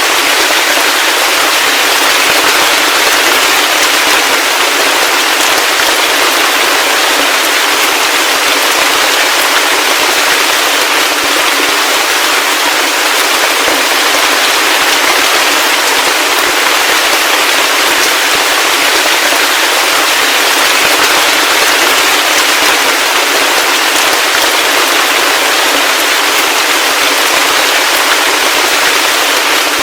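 Heavy rain falling steadily: a dense, even hiss of drops with fine crackle, with no deep low end.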